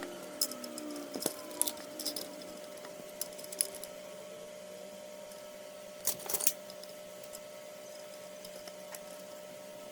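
Small hard metal parts and tools clicking and clinking as they are handled, in scattered light taps with a short cluster about six seconds in, over a faint steady hum.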